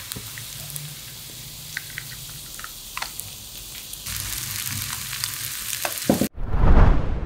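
Grated potato and corn patties sizzling in a pan of hot butter, with scattered pops and a wooden spoon stirring; the sizzle gets louder about four seconds in. Near the end a loud swelling whoosh cuts in.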